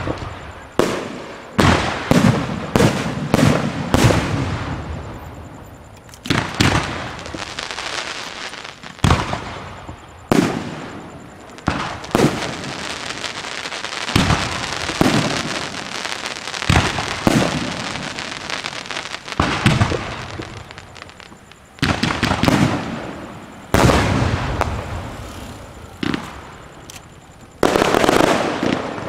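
Aerial fireworks show: about twenty firework shells bursting at irregular intervals, each a sharp bang, with continuous crackling between them.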